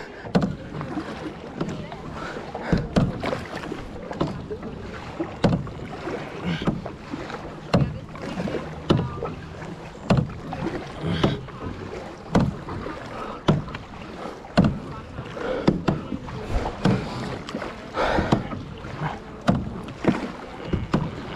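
Kayak paddles dipping and pulling through lake water, a steady rhythm of splashing strokes about once a second.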